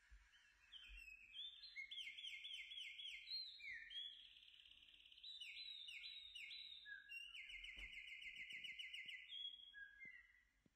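A songbird singing faintly: several phrases of rapid, repeated high chirping and trilled notes with brief pauses between them. A few soft clicks come near the end.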